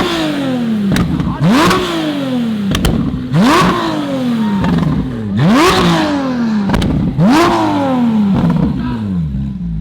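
Car engine revved hard again and again: about five quick blips, each rising sharply and then falling slowly back, with a few sharp cracks between revs, dying away near the end.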